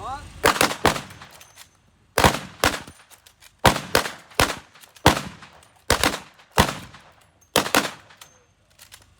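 Rifles firing five rounds rapid on the command "Fire". The sharp shots come in quick groups of two or three, about every one and a half seconds, each with a short echoing tail.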